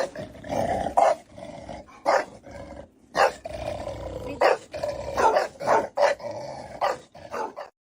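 A dog growling and barking in a string of short bursts, about a dozen over several seconds.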